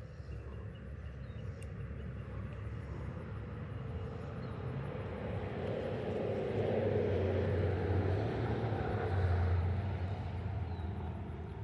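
A vehicle passing by, growing louder to a peak about seven to ten seconds in and then fading away.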